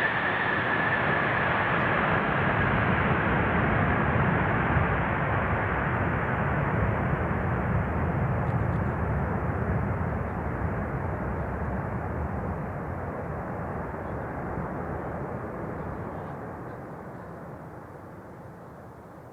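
Jet airliner's engines passing and receding: a loud, dense rumble with a high whine that falls in pitch over the first few seconds, the whole sound fading steadily away.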